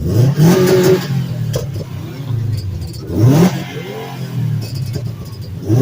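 Car engine idling and being revved three times, each rev a quick rising blip: at the start, about three seconds in and near the end.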